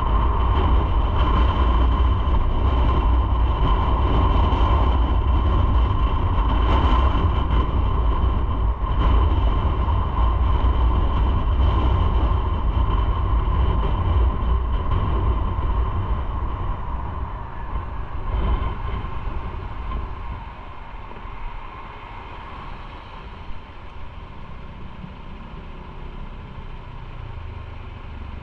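Motorcycle riding at speed: the engine and tyres give a heavy, steady rumble under a constant whine, with wind buffeting the microphone. About two-thirds of the way through it eases off and quietens as the bike slows.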